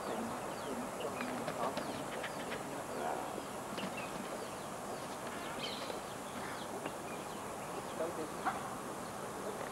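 Scattered short bird chirps over a steady hiss.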